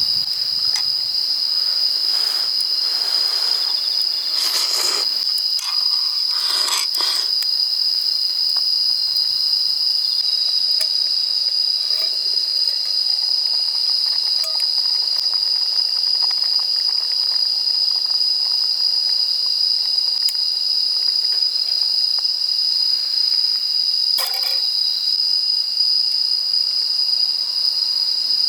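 A steady, high-pitched chorus of crickets chirring without a break. A few brief rustling or handling noises come over it about five, seven and twenty-four seconds in.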